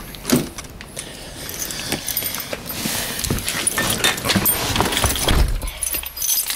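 A bunch of keys jingling and clinking as they are handled, with a few dull knocks in the middle.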